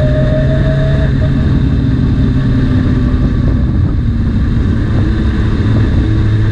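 Motorcycle engine running steadily at a constant pitch, with a strong low hum.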